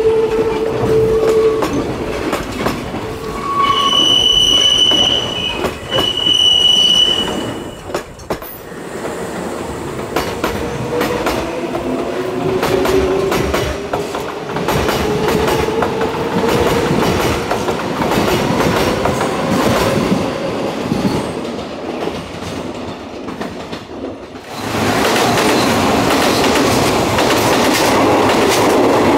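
Kintetsu electric trains at a station platform. Two steady high-pitched squeals sound a few seconds in. A train's traction motors then whine upward in pitch as it accelerates, with wheels clattering over the rail joints. About 25 seconds in, a louder rush of train noise sets in as another train passes close by.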